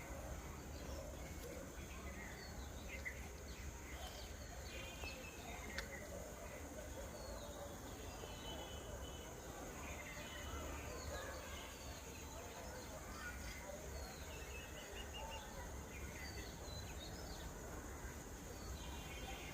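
Birds chirping and calling outdoors, many short chirps and quick trills, over a steady low rumble.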